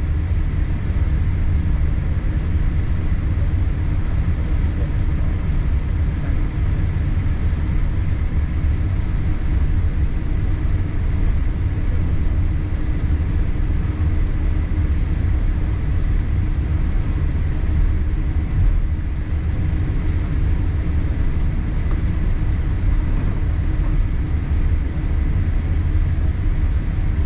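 Steady low rumble inside the cabin of a Boeing 787-8 on the ground after landing: the engines at idle and the cabin air, with a faint steady whine above it.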